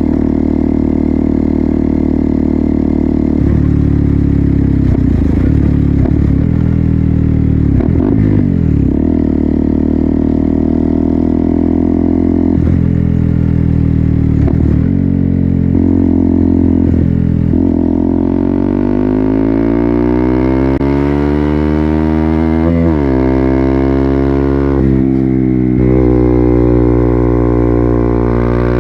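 KTM Duke 200's single-cylinder engine through an Akrapovic full-system exhaust, riding along: a steady note with a few brief dips, then accelerating with the pitch rising for several seconds, dropping sharply at an upshift and climbing again.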